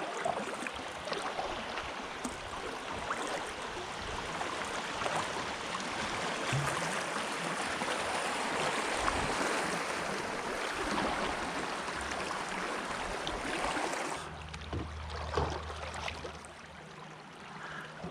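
Rushing river current, a steady wash of moving water around a kayak going downstream. About fourteen seconds in the water noise drops off sharply, leaving a quieter stretch with a low hum.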